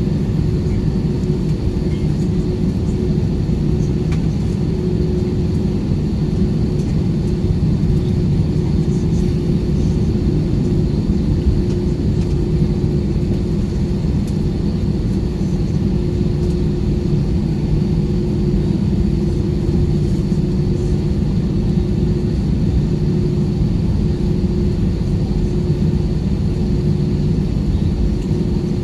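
Steady cabin noise inside an Airbus A320 taxiing on the ground: a constant low rumble of the engines with a steady hum and a faint high whine, holding level throughout.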